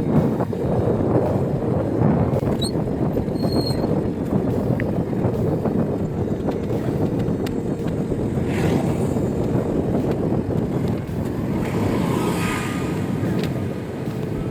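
Wind rushing steadily over the microphone of a moving e-bike, with a few faint brief high chirps about three seconds in.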